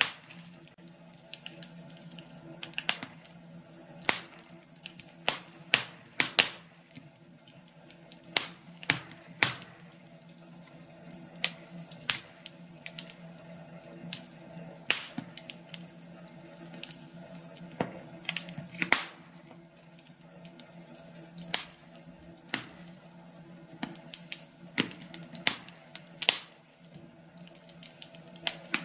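Wood fire crackling: irregular sharp pops and snaps, about one or two a second, over a soft hiss of burning logs.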